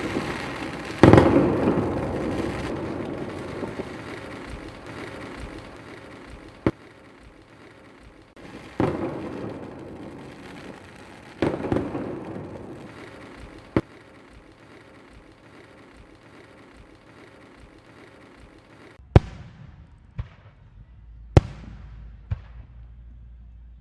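Fireworks exploding overhead: about five heavy booms, each followed by a long rolling echo, with single sharp cracks in between. Near the end come four short, sharper cracks in quick succession.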